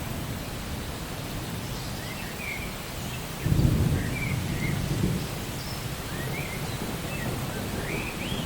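Steady rain with a low rumble of thunder that swells about halfway through. A bird calls a few short chirps over it.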